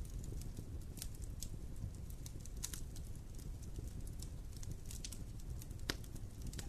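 Wood campfire burning: irregular sharp pops and crackles over a low steady rumble of the flames, with the sharpest pop near the end.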